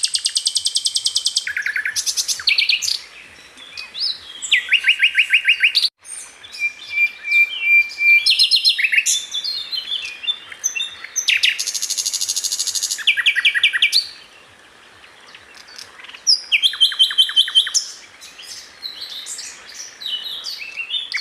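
Sikatan londo flycatcher singing a varied, continuous song of fast trills and rapid rattling note series, each phrase lasting one to two seconds and jumping between high and lower pitches, with short pauses between phrases.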